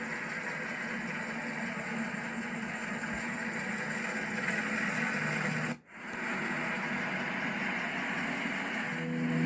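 Alfa Romeo Spider's 2.0-litre twin-cam inline four idling steadily, with a hiss over it; the sound cuts out abruptly for a moment about six seconds in, then returns.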